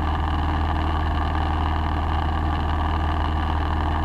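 Steady engine and propeller drone in the cabin of a light single-engine airplane in cruise, a constant low hum under a hiss.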